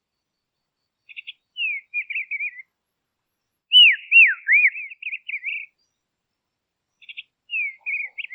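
A songbird singing three short whistled phrases. Two of them open with a few quick short notes, and each runs into a warble of sliding whistles. The middle phrase, about four seconds in, is the loudest, with swooping arched notes.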